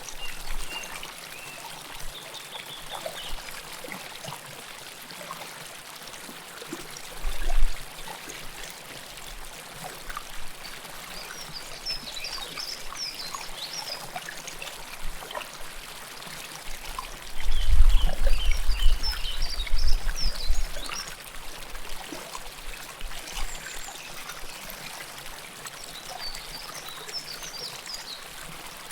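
River water flowing and trickling close up, a steady rush. Low rumbling thumps come about seven seconds in and again for a few seconds past the middle, and a few short high chirps sound over the water.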